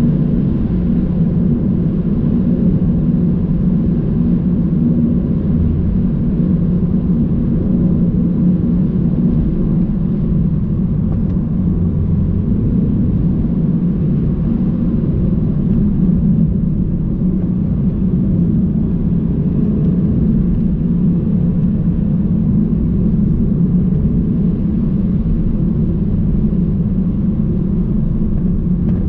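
Steady low rumble of a car's engine and tyres on the road, heard from inside the cabin while driving at an even speed.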